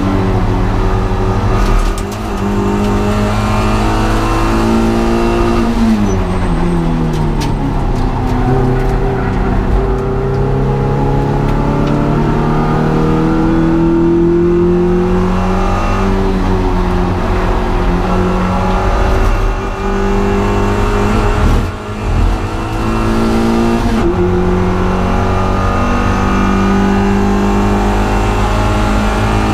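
Honda Integra DC2's four-cylinder engine working hard on a race track, with revs rising and falling through gear changes and braking. The engine note drops steeply once early and again about six seconds in, then climbs slowly, with short lifts off the throttle about two seconds in and near twenty-two seconds.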